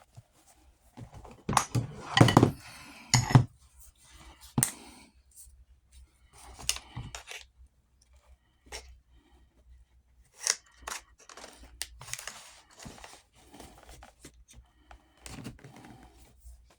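Irregular clicks, scrapes and rustles of hand work on the saddle's leather straps and metal Blevins buckles, loudest for a couple of seconds near the start.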